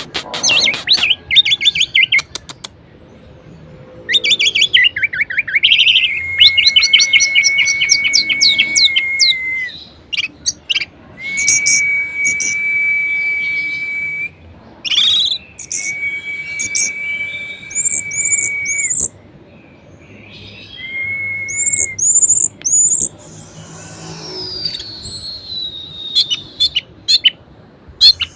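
Orange-headed thrush singing a varied song: rapid runs of notes, long steady whistles held for two to three seconds each, high quick chirps and a long falling whistle near the end.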